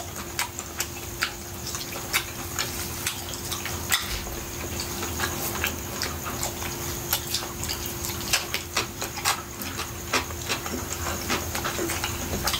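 Close-miked wet chewing and lip smacking from eating roast chicken, with many irregular smacks and clicks over a faint steady hum.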